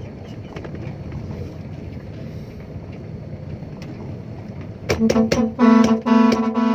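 Steady engine and road noise of a dump truck driving on a dirt track, then a vehicle horn sounded in a string of short blasts near the end, a few quick taps followed by three or four longer toots.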